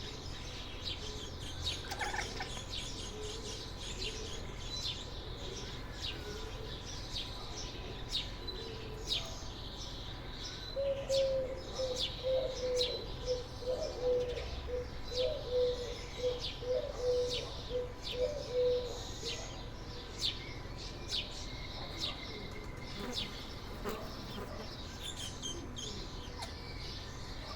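Small birds chirping and tweeting throughout. About eleven seconds in, a cat chatters at them: a rapid run of short, repeated chirping clicks lasting about eight seconds, the loudest sound here.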